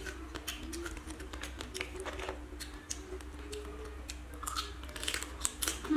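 Person biting and chewing cooked crab, the shell cracking and crunching in the mouth in irregular, sharp little clicks, over a steady low hum.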